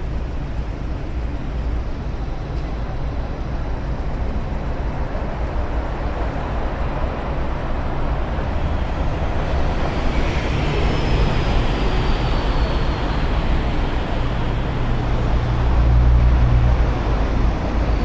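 Scania K310UD double-decker bus running under way: a steady low engine drone that grows louder about two-thirds of the way through, with a faint falling whine about ten seconds in.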